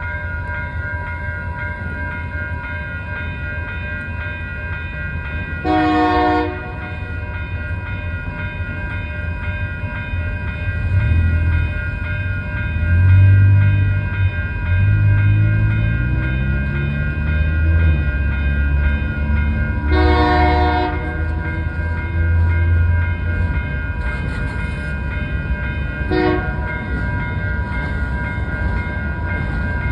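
Union Pacific diesel freight train running, with a steady low engine rumble. The air horn sounds short blasts about 6 s in, about 20 s in, briefly near 26 s and again at the end. The engine note rises in pitch for several seconds in the middle.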